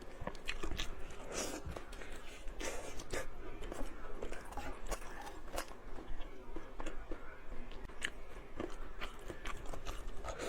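A person chewing and biting food close to the microphone, with many short, irregular clicking mouth sounds.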